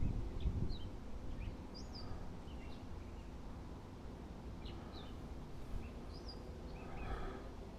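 Birds chirping, short scattered calls over a steady low outdoor rumble, with a low bump right at the start.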